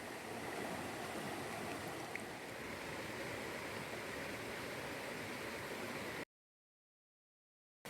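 Steady watery rushing noise, which cuts off abruptly to dead silence about six seconds in.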